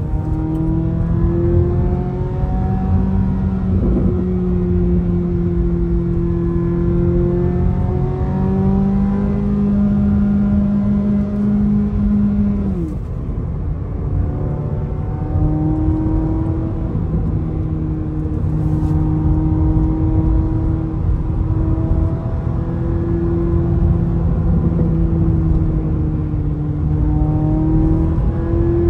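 Chevrolet Corvette C8 Z06's flat-plane-crank V8 heard from inside the cabin, pulling at highway cruising speed. The engine note steps up about eight seconds in, drops sharply a few seconds later, then holds a steady drone.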